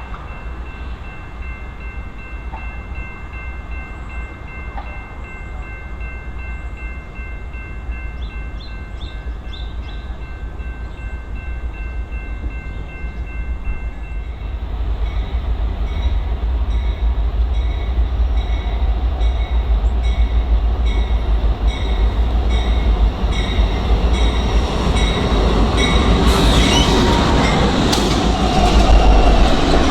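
Eastbound BNSF diesel freight train approaching: a low engine rumble that grows steadily louder, a regular repeating ring from about halfway, and the loudest rush of noise near the end as the locomotives reach the camera.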